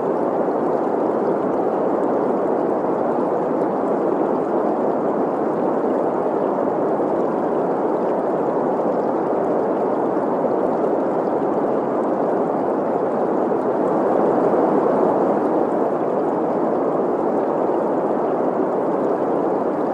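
Synthetic green noise, a steady even hiss centred in the middle range, blended with the sound of a running stream.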